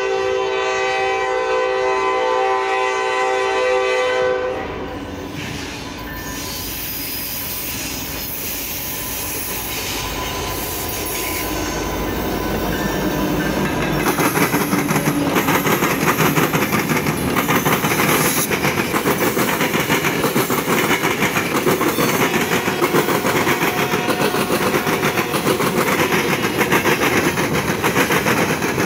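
A Norfolk Southern SD70ACU diesel locomotive's air horn sounds one long chord for about the first four seconds. The low rumble of the two SD70ACU locomotives then builds as they pass close by. After that come the fast, steady clicks of the loaded coal hoppers' wheels rolling over the rail joints and crossing.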